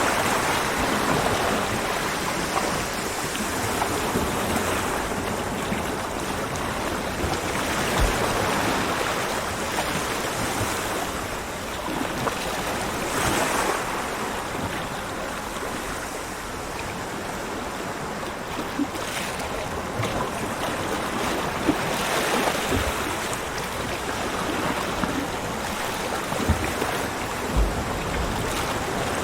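Ocean waves washing onto a beach, a continuous rush of surf that swells and eases gently, with a few brief low thumps that sound like wind buffeting the microphone.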